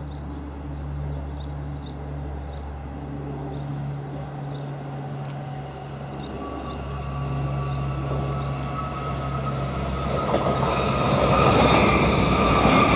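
A train approaching along the line, its sound growing steadily louder, with high steady whining tones from its wheels and drive coming in about halfway through. Small bird chirps can be heard during the first few seconds.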